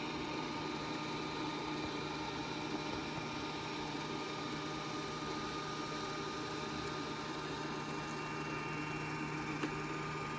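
Dreame D10 robot vacuum running on its way back to the dock: a steady motor hum with a faint even whine, and a small click near the end.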